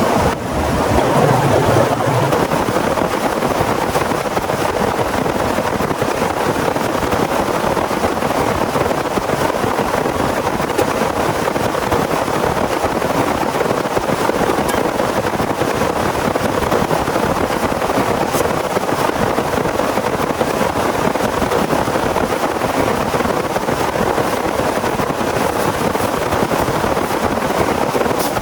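Steady heavy rain pouring down, with a brief low rumble about a second in.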